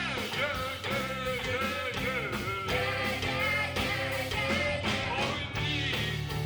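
Live rock band playing an upbeat rock and roll song, with a steady bass-and-drums bed under a wavering, bending lead melody line.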